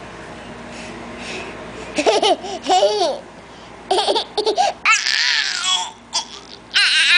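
Baby laughing and squealing in short high-pitched bursts, starting about two seconds in, with a long shrill squeal around the fifth second.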